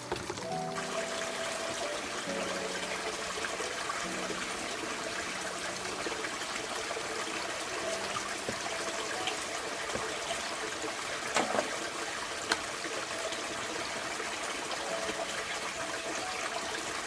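Water running and trickling steadily, with faint background music. Two brief sharp knocks come a little past the middle.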